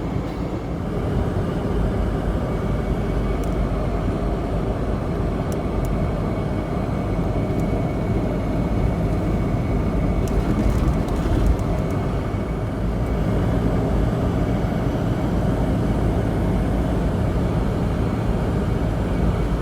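Steady road and engine noise of a 3rd-generation Toyota 4Runner cruising on the highway, heard inside the cabin as an even low rumble with a faint steady whine.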